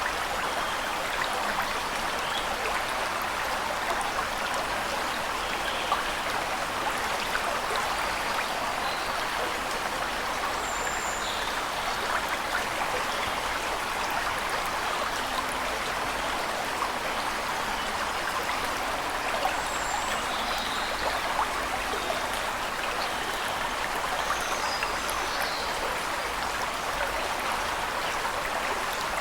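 Waterfall rushing steadily, with a few faint, short bird chirps here and there.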